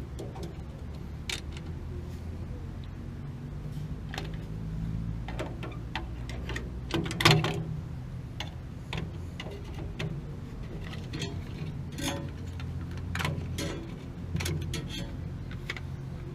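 Irregular small clicks and taps of hands and tools working on a gas water heater's controls, with one louder knock about seven seconds in, over a low steady hum.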